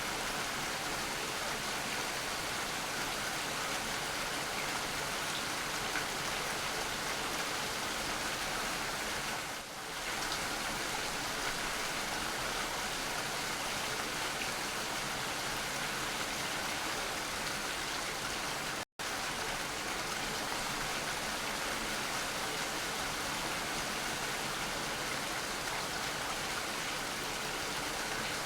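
Steady, even rainfall hiss. The sound dips slightly about a third of the way through and cuts out completely for a split second about two-thirds through.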